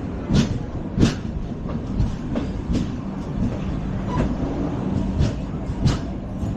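LHB passenger coach running at speed on the rails: a steady rolling rumble with sharp, irregular wheel knocks over rail joints, the loudest about half a second in, about a second in and near the end.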